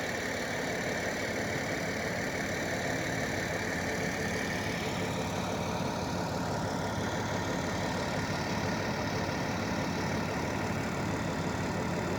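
Heavy engine idling steadily.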